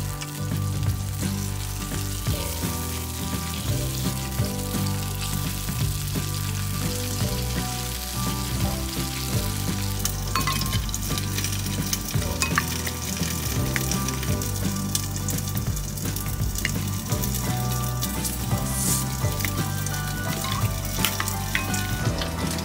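Food sizzling steadily as it fries in a pan, with a few light clicks of a utensil partway through, over background music.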